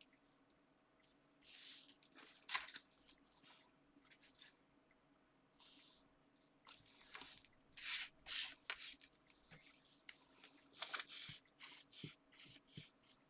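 Paper and card being handled: short, faint rustles and scrapes come and go, with a few light taps near the end.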